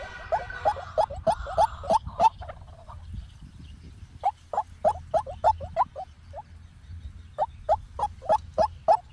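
White-breasted waterhen calling: a fast series of short notes, each falling in pitch, about three a second. They come in three bouts broken by short pauses.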